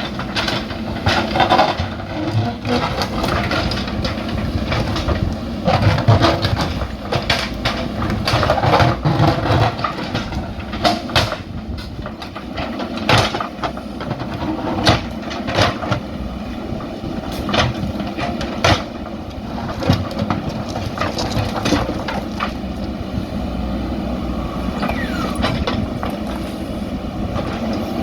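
JCB backhoe loader's diesel engine running steadily under work, with a string of sharp knocks and clanks scattered through it, loudest in the middle stretch.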